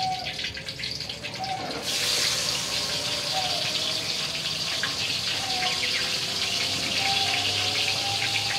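Chopped chilies and tomato frying in hot oil in a wok: a quieter sizzle jumps suddenly to a loud, full sizzle about two seconds in as the ingredients hit the oil, then carries on steadily.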